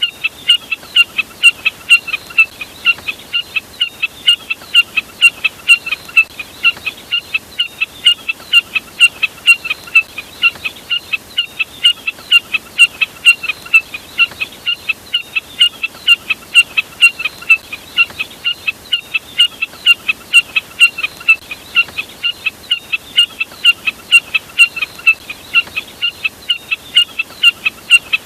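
Jack snipe (burcet) call: short, sharp, high notes repeated steadily at about three a second, with no break.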